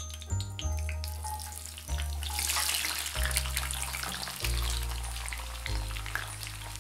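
Garlic cloves sizzling and crackling in hot olive oil in a cast-iron skillet, the sizzle swelling about two seconds in as a handful of cloves goes into the oil. Background music with a low, steady bass line plays throughout.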